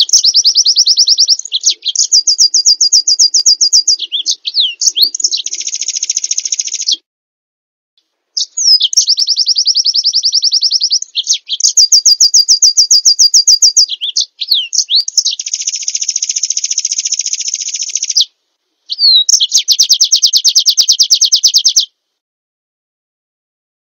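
Small songbird song: loud, very fast high-pitched trills run together with buzzy phrases and quick slurred notes, in three long bursts broken by brief silences about 7 and 22 seconds in.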